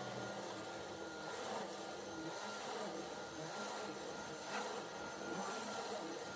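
Vacuum cleaner running steadily, a constant motor hum with a thin high whine over an even rush of air.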